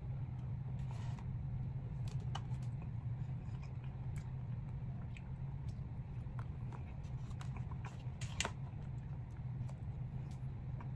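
Close-up chewing and biting of a piece of fruit: scattered crunches and mouth clicks, the loudest about eight and a half seconds in, over a steady low hum.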